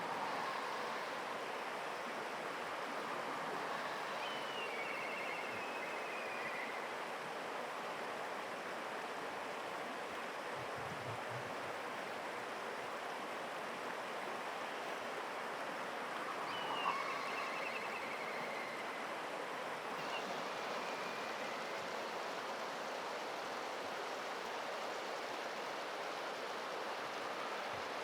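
Black kite calling its descending, wavering whistle ("pee-hyororo") twice, about twelve seconds apart, with another call starting at the very end, over a steady rushing background noise.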